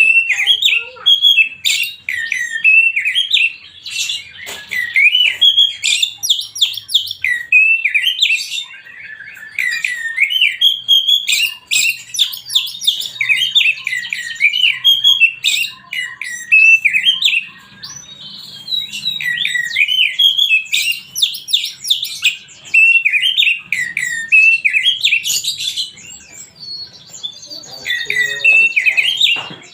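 Oriental magpie-robin (kacer) singing nonstop, fast runs of rising and falling whistled notes with short pauses between phrases, a song used as a lure to make other kacer answer.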